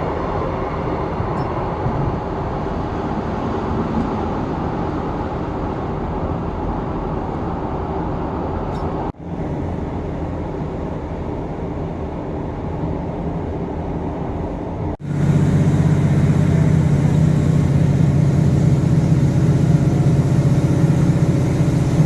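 Diesel train running, heard from inside the carriage as a steady engine drone with rumble. The sound cuts off abruptly twice, and after the second cut the low engine hum is louder and steadier.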